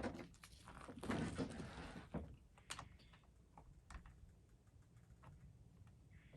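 Clicks and light metal rattles of a chainsaw's bar and chain being handled and fitted, busier for the first two seconds, then a few sparse clicks.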